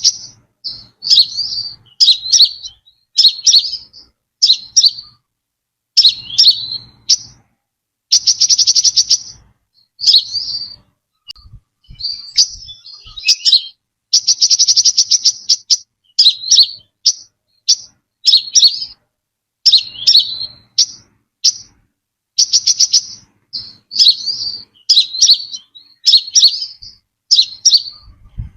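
Brown-throated sunbird calling: short, sharp, high chirps repeated every second or so, with a fast rattling trill about 8 seconds in and another about 14 seconds in.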